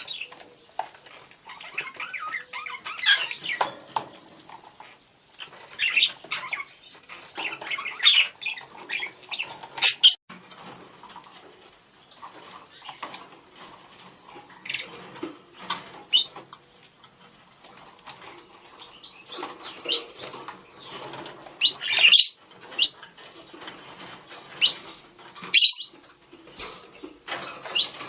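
Budgerigars calling to one another: irregular bursts of sharp chirps and warbling chatter, with quieter twittering in between.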